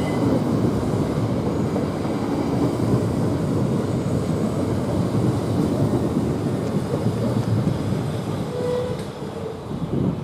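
Southeastern Class 375 Electrostar electric multiple unit pulling away past the platform, with a steady rumble of wheels on the rails that eases slightly near the end.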